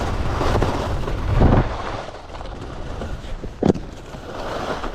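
Wind rushing over the microphone and skis scraping over frozen, firm groomed snow at high speed. It is loudest in the first second and a half, then eases, with a single sharp knock about three-quarters through.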